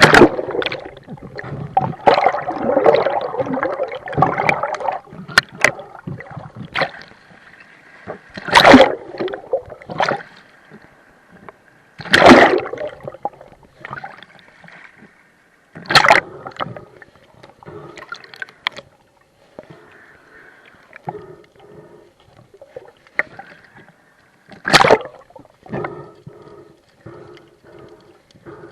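Rough seawater sloshing and gurgling around the camera, broken by sudden loud splashes every few seconds.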